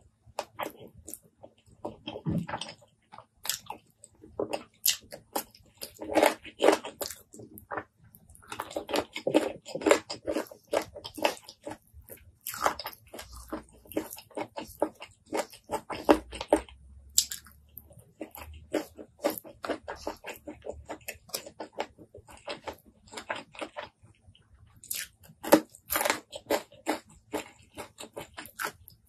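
Close-miked chewing of a mouthful of curried rice and chicken: wet smacking and clicking mouth sounds in quick, irregular clusters, with a few short pauses.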